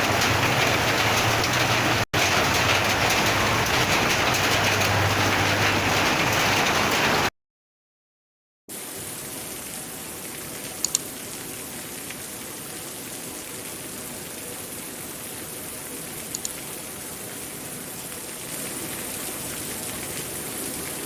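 Heavy rain pouring down, a dense steady hiss. It cuts out for about a second and a half partway through and comes back quieter, with a couple of faint ticks.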